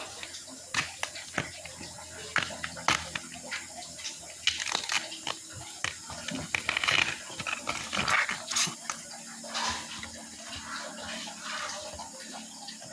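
Water splashing and sloshing, with irregular clicks and knocks.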